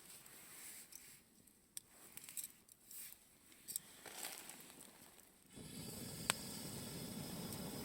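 Campfire crackling with scattered small pops and snaps. About five and a half seconds in it switches abruptly to a steady rushing hiss with one sharp pop.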